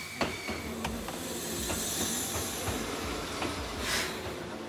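Enoden electric train running, heard from inside the carriage: a steady rumble with scattered clicks from the wheels on the track and a brief hiss about four seconds in.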